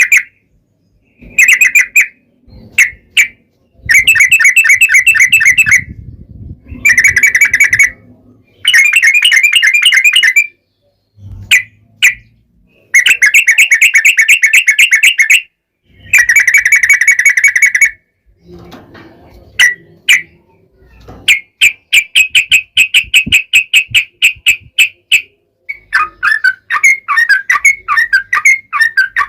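Yellow-vented bulbul singing loudly in long, fast rattling phrases of rapidly repeated notes, each about two seconds long with short pauses between them. Near the end the song breaks into more varied, uneven chirping.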